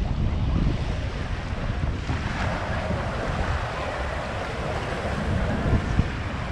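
Wind buffeting the microphone over small Lake Michigan waves washing onto a sand beach, steady throughout.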